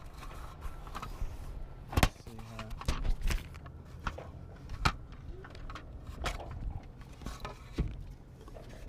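Autopilot parts being handled and unpacked: scattered sharp knocks and clicks, the loudest about two seconds in, over a steady low hum.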